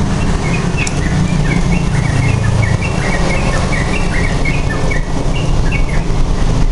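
Yellow-vented bulbul (trucukan) chirping in a quick run of short notes, over a steady low rumble that is the loudest thing heard.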